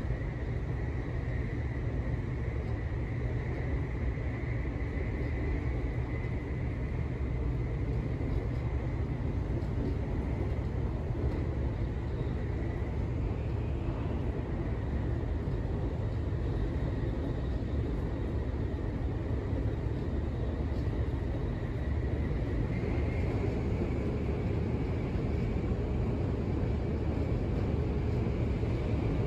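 Interior running noise of a Tokaido Shinkansen N700-series bullet train: a steady low rumble with a faint high whine that drifts a little in pitch, growing slightly louder about two-thirds of the way through.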